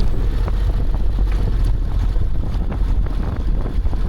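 Wind buffeting the microphone, a loud, steady low rumble with constant crackling flutter.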